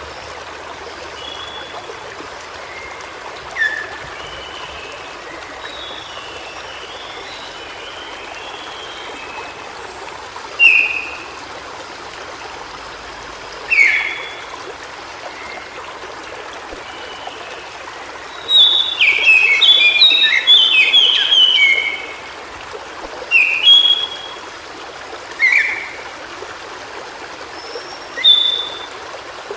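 White-browed shortwing singing: short high whistled notes every few seconds, and a little past halfway one rapid, jumbled warbling phrase lasting about three seconds, the loudest sound here. Under it runs the steady rush of a stream.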